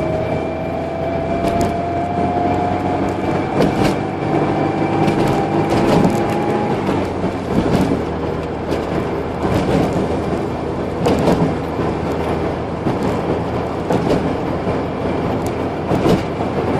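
Carburetted car's engine and tyre noise heard from inside the cabin while driving, with a whine that rises gently in pitch as the car gathers speed and fades out about seven seconds in. Occasional short knocks from the road surface.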